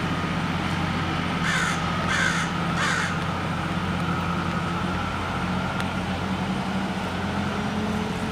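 A crow cawing three times in quick succession, about one and a half to three seconds in, over a steady low engine hum.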